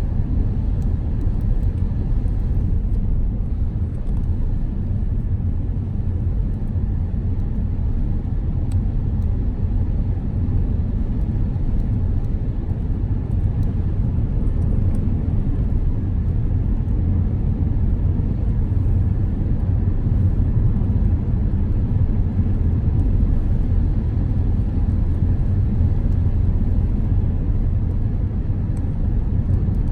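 Car driving at a steady speed: a continuous low road rumble of tyres and engine, even throughout with no changes.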